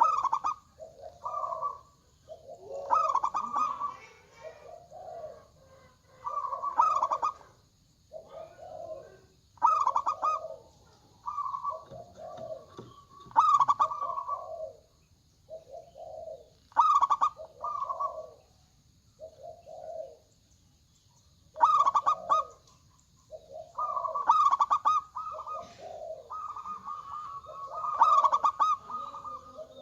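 Zebra doves (local perkutut) cooing, phrase after phrase every couple of seconds, each phrase a run of short coos at a low and a higher pitch, many opening with a brief sharp high note. Near the end the phrases run together with hardly a pause.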